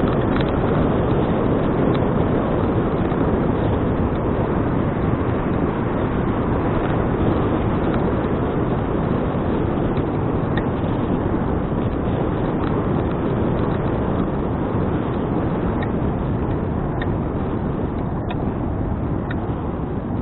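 Steady wind rush buffeting an action camera's microphone while cycling, with road and tyre noise underneath. A few faint ticks come through in the second half.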